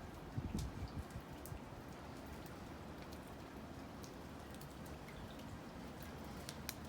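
Wet, near-freezing snow falling steadily, with a soft hiss and scattered small ticks and drips of flakes and meltwater landing. A few low thumps in the first second.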